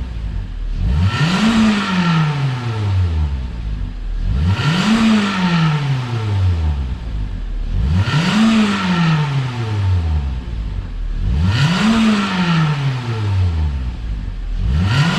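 Toyota Altis 1.8 four-cylinder petrol engine being free-revved through a single-can aftermarket muffler. The exhaust note rises sharply and then falls slowly back toward idle, once about every three and a half seconds: four blips, with a fifth starting near the end.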